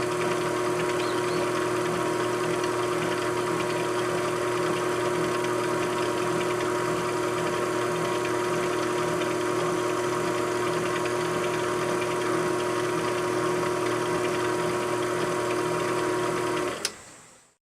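Machine tool running steadily with a constant motor hum and whine, then stopping with a click near the end and falling silent within about half a second.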